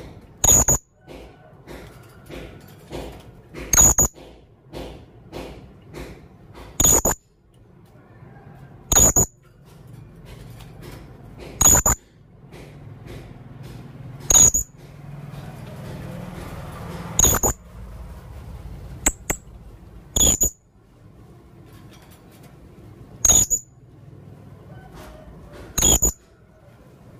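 Blue-crowned hanging parrot (serindit) giving sharp, high-pitched calls, a loud one every two to three seconds with fainter calls between, in full voice.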